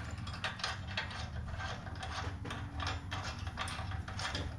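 Hand socket ratchet clicking as a bolt is worked loose on a mini bike frame, a run of short, uneven clicks over a low steady hum.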